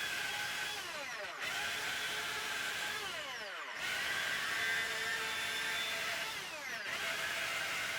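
Electric power tool motor running, then switched off and winding down three times, each time starting up again.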